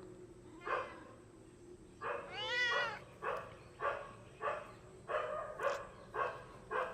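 Domestic cat meowing once, a drawn-out call that rises and falls in pitch, from a cat guarding a bird it has caught. A run of short raspy sounds comes about every half second around it.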